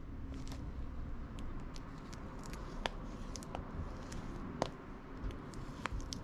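A small wood fire crackling in a camp stove: sharp, irregular pops and snaps over a low, steady rumble, the loudest pops about three and four and a half seconds in.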